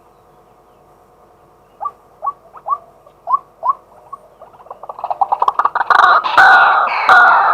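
Male white-breasted waterhen calling: a few separate short rising notes about two seconds in, quickening into a fast run that builds into loud, continuous repeated calling near the end. A faint steady hum lies underneath.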